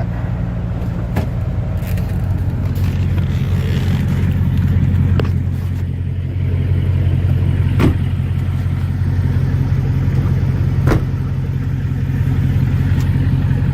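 Chevrolet Avalanche's V8 engine idling steadily, with a few sharp clicks over it.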